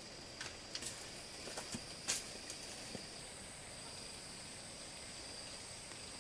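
Several light clicks and knocks in the first three seconds, the sharpest about two seconds in, over a faint, steady, high-pitched whine.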